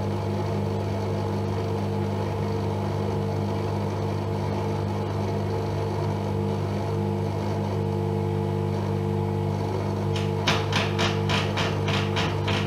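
AEG Öko-Lavamat Lavalogic washing machine running mid-cycle with a steady hum. Near the end a rapid, regular ticking or knocking sets in, about four strikes a second, over the hum.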